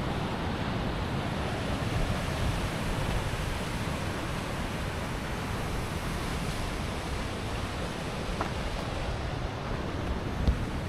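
Ocean waves washing in steadily, with wind buffeting the microphone.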